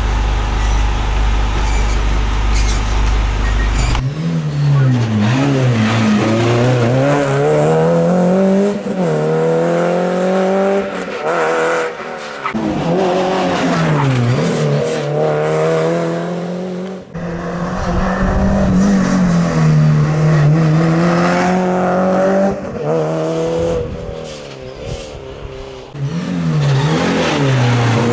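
Rally car engines revving hard and swinging up and down in pitch through rapid gear changes and lifts as the cars pass at speed, with tyre squeal and crackling pops off the throttle near the end. A steady low hum comes first, before the revving begins about four seconds in.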